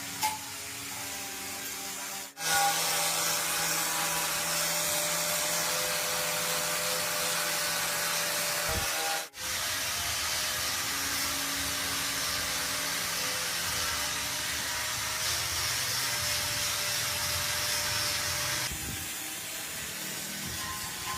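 A steady hissing noise with a low hum under it starts about two seconds in, cuts out for a moment near the middle, and eases off near the end.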